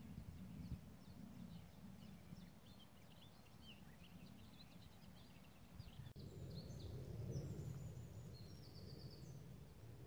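Faint birdsong: several birds giving short chirps and calls, over a low steady rumble. The sound drops out for an instant about six seconds in, and a different bird then sings, with a short rapid trill near the end.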